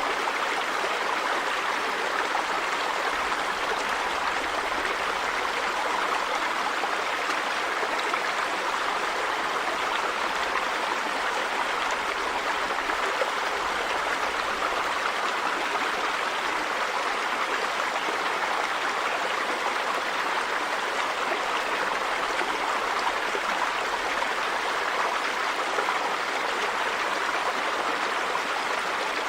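River water running steadily over rocks, an even rushing with no pauses.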